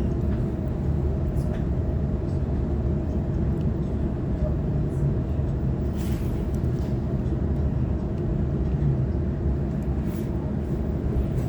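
Sydney Trains Waratah electric multiple unit running at speed, heard from on board: a steady low rumble of wheels on rail with a faint steady hum and a few brief clicks.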